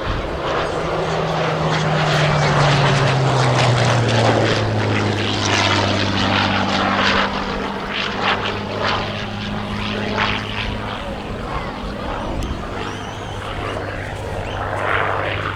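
Hawker Hurricane Mk.IV's Rolls-Royce Merlin V12 engine and propeller in a fly-past: the engine note drops in pitch over the first few seconds as the aircraft passes, then settles into a steady drone that eases off slightly.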